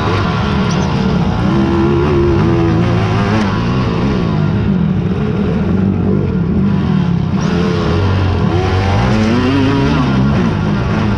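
Several off-road racing quad (ATV) engines revving, their pitch rising and falling over and over as they accelerate and ease off.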